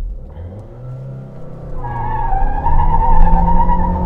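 Mahindra XUV700's 2.0-litre turbocharged four-cylinder petrol engine pulling hard as the car accelerates from a standstill, heard from inside the cabin. The engine note climbs in pitch and gets louder.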